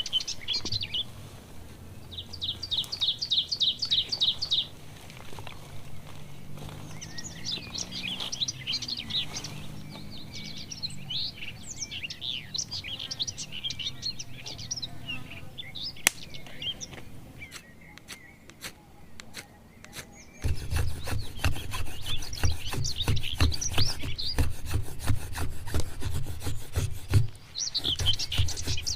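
Forest birds singing and calling, with a fast trill of evenly repeated notes a couple of seconds in. About two-thirds of the way through, a steady run of rough, rhythmic scraping strokes starts and carries on, louder than the birdsong.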